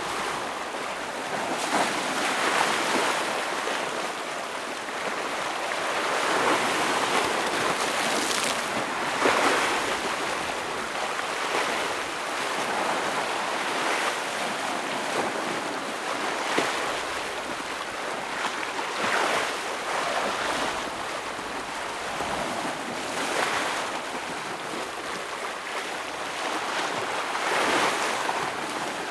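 Ocean waves breaking and washing against shoreline rocks, in repeated surges a few seconds apart over a continuous surf wash.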